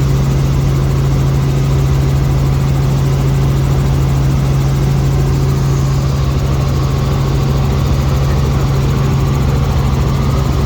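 Helicopter in flight: a loud, steady drone of engine and rotor with a strong, even low hum.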